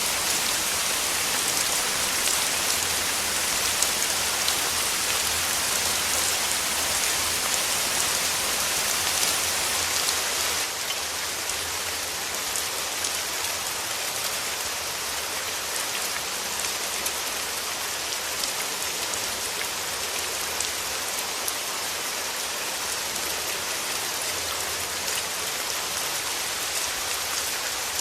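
Steady rain falling, with many individual drops ticking on a surface. It becomes a little softer and duller about ten seconds in.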